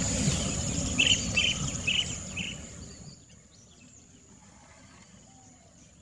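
Small birds chirping over low background noise: four short, evenly spaced chirps starting about a second in. About halfway through the background noise drops away, leaving only faint, scattered bird calls.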